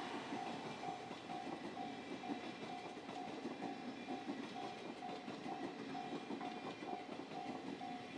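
12-series passenger coaches rolling past, their wheels clattering over the rail joints. A level-crossing warning bell keeps ringing throughout, a short chime about twice a second.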